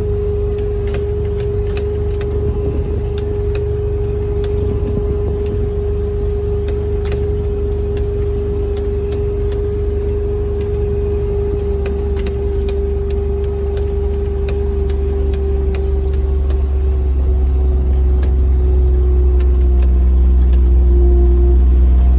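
Small off-road vehicle driving over rough field ground: a steady hum from its drive under a low rumble, with scattered knocks and rattles from bumps. It gets somewhat louder and the hum dips in pitch near the end.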